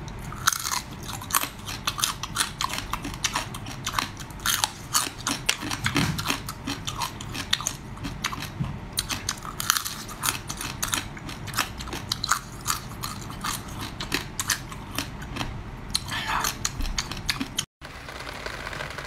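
Whole small soy-marinated crabs being bitten and chewed, shells cracking in many quick, irregular crunches. The crunching stops abruptly near the end.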